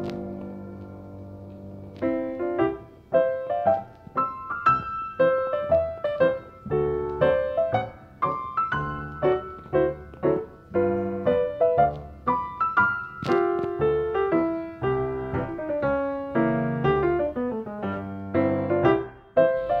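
Solo piano music: a held chord fading away, then a flowing melody of struck, decaying notes from about two seconds in.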